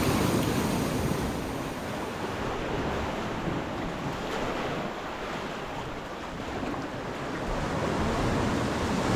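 Wind buffeting the microphone over the rush of waves on the shore, a steady rough noise that eases a little in the middle and swells again near the end.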